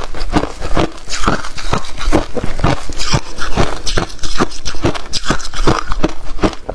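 A person biting and chewing crunchy freezer frost close to the microphone: a quick, unbroken run of loud crunches and crackles.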